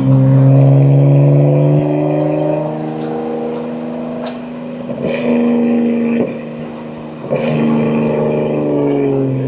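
BMW M2 G87's twin-turbo S58 inline-six with catless downpipes and an equal-length mid pipe, pulling through the gears. The engine note climbs and breaks off a few times as the manual gearbox is shifted.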